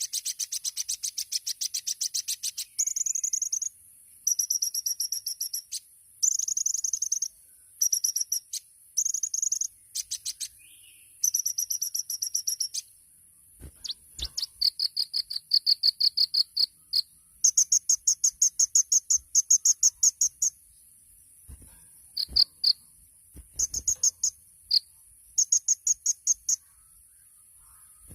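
Kolibri ninja sunbird singing its rapid-fire 'tembakan' song: phrase after phrase of very fast, high-pitched trilled chirps, each burst lasting one to three seconds with short pauses between. A steady, even higher-pitched insect-like trill runs underneath, and a few soft knocks come in the second half.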